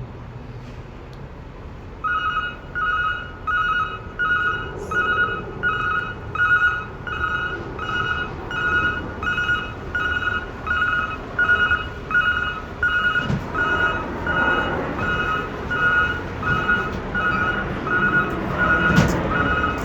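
Roll-off truck's backup alarm beeping steadily, about one and a half beeps a second, starting about two seconds in, over the truck's running engine, which grows louder in the second half.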